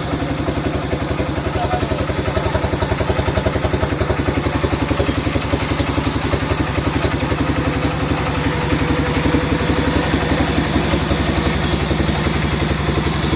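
An engine running steadily at idle-like speed with a fast, even throb, the sawmill's machinery ticking over without a cut in progress.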